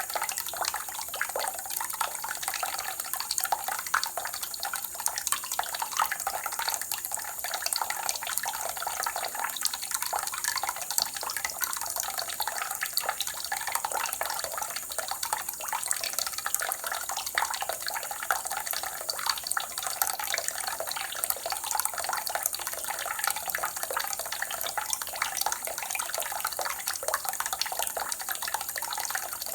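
Water running and splashing steadily, a dense patter of small splashes and drips that goes on without a break.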